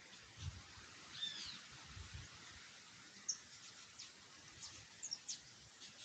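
Faint songbirds calling outdoors: scattered short high chirps and whistles, with one curved, rising-and-falling whistled note about a second in. A couple of low thumps come early on against a light background hiss.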